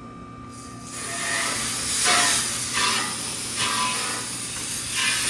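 Water spraying hard from a hose onto a Trane XL heat pump's outdoor coil: a loud hiss that starts about a second in and keeps swelling and easing.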